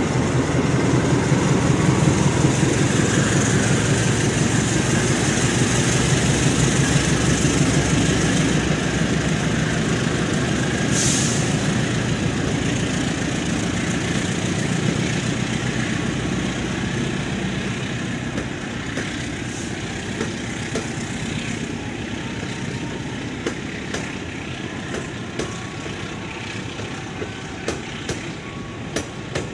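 CC206 diesel-electric locomotive pulling a passenger train away from the platform. Its engine note is loudest at first, then the coaches roll past and the sound slowly fades, with wheels clicking over the rails near the end. A brief sharp hiss comes about eleven seconds in.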